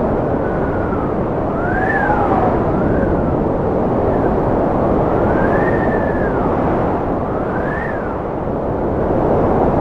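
Strong wind blowing steadily, with a whistle that rises and falls in pitch several times.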